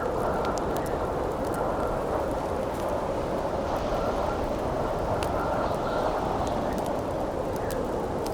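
Steady howling wind with a campfire crackling over it: scattered sharp pops and snaps above a constant low rush of wind.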